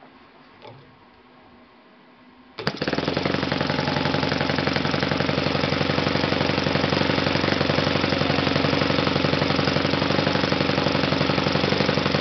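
Kalt FC-1 four-stroke glow-fuel model engine, driving a 13x6 propeller. After a few faint clicks it comes in suddenly about two and a half seconds in and then runs steadily at a fast, even rate.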